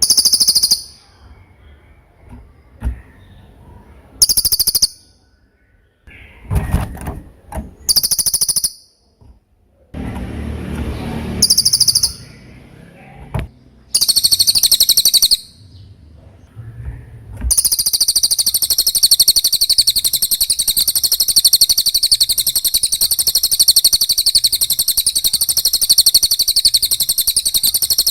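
Cililin bird calling in short, shrill, high bursts every few seconds. About two-thirds of the way in, it breaks into a continuous, rapid, high trilling song.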